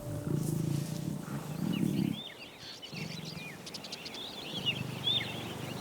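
Lions growling: two strong low growls in the first two seconds, then weaker ones later. Small birds chirp in the background from about a second and a half in.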